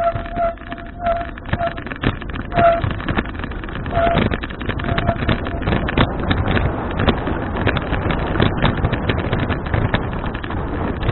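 Wind buffeting the microphone of a camera riding on a moving bicycle, with rattling and knocking from the ride over the road. A few short, high tones sound in the first five seconds.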